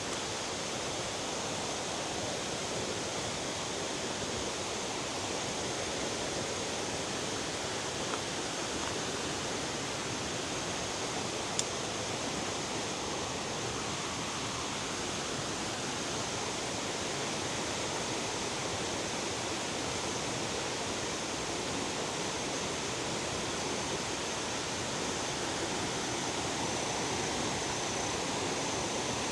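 Waterfall water falling and rushing as a steady, even noise.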